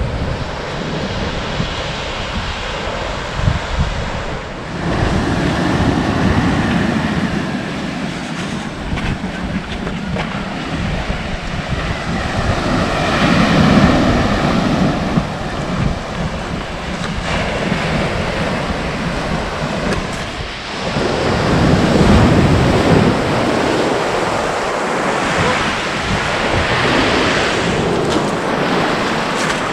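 Ocean surf breaking on a beach, the wash swelling and falling every several seconds, with wind buffeting the microphone.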